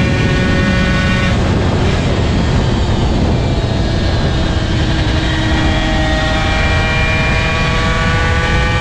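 Honda NSR250R two-stroke V-twin racing motorcycle engine, heard onboard with heavy wind rush. The rider closes the throttle about a second and a half in, then accelerates hard again, the engine note climbing steadily.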